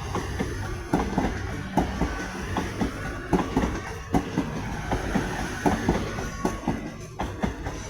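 Coupled pair of Class 802 trains moving along the track, a low rumble with irregular clicks of the wheels over rail joints.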